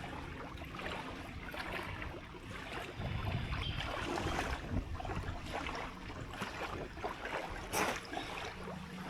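Water and wind at a lakeshore: a steady wash of noise with scattered small splashes and ticks, and one sharp click about eight seconds in.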